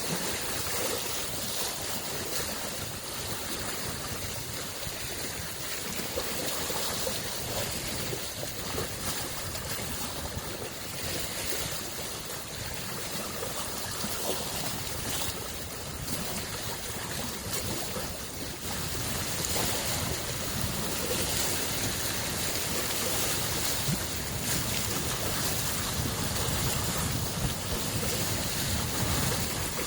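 Small lake waves washing and lapping on the shore in a steady wash, which grows a little louder about two-thirds of the way through.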